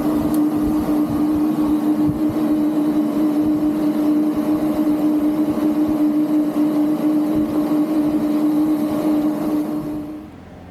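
A motor running steadily at one unchanging pitch, with a rough noisy layer over it, dying away about ten seconds in.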